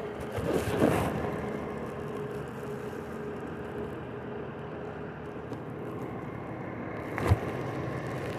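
A vehicle engine running at idle, a steady hum with a faint held tone. A louder rush comes about a second in, and a single short thump near the end.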